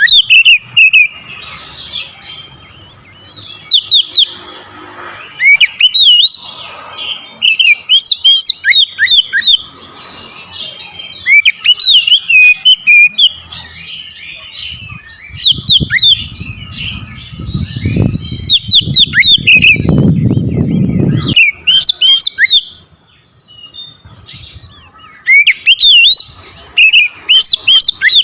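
Oriental magpie-robin (kacer) singing loudly: bursts of sharp, fast-sliding whistled notes every second or two. A low rumbling noise runs under the song for several seconds past the middle.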